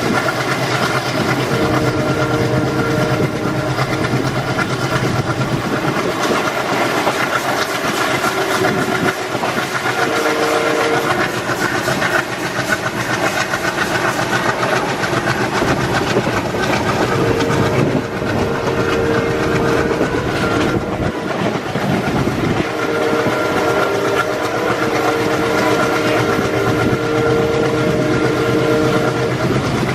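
An Indian Railways train passing close by, its wheels clattering continuously over the rail joints. A horn sounds several times as it passes, in blasts lasting a second or a few seconds each.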